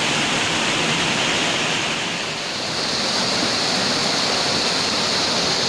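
Rushing river water: a steady, even rush of flowing water, dipping slightly about two seconds in.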